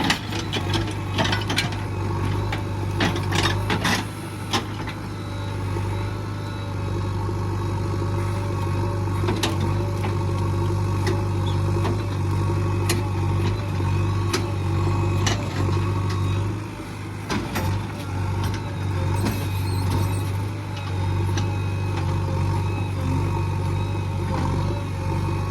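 JCB 3DX backhoe loader's diesel engine running steadily, with a run of sharp clanks and knocks in the first few seconds.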